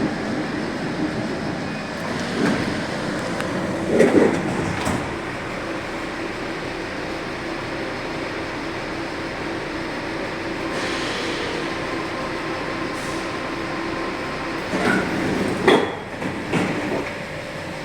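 Santiago Metro NS-74 train running, a steady rumble with a faint held tone, broken by a few sharp clunks, several of them close together near the end.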